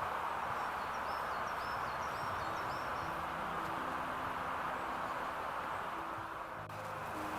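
A small bird gives a run of about nine short, high chirps over the first three seconds, over a steady rushing background noise with a faint low hum.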